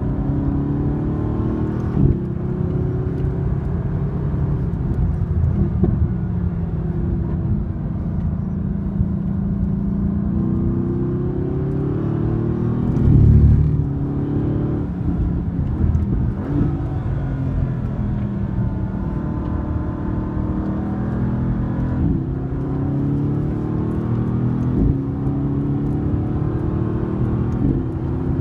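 Mercedes-AMG GT's twin-turbo V8 heard from inside the cabin under hard driving, its pitch repeatedly climbing and then dropping as it accelerates and shifts gears. About thirteen seconds in there is a brief, louder low rumble.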